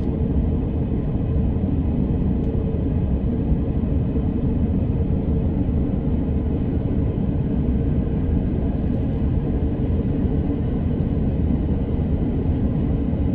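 Electric commuter train running at speed, heard from inside the passenger car: a steady low rumble of wheels on the rails with a faint constant hum above it.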